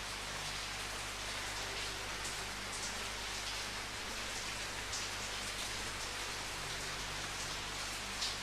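Steady rain falling in an even hiss, with a few louder single drops standing out now and then, the clearest near the end.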